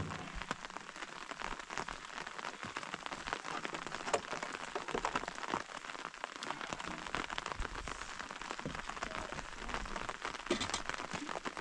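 Steady rain falling, with many small irregular drop impacts pattering on a surface.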